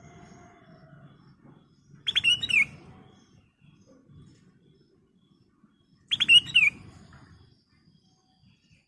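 Black-crested bulbul (kutilang emas) singing two short phrases about four seconds apart. Each phrase is a quick run of clear notes ending in a falling whistle.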